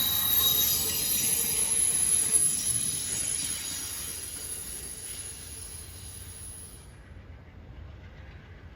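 Train wheels squealing on the rails in steady high-pitched tones over a rolling rumble, the sound dying away gradually as the train moves off.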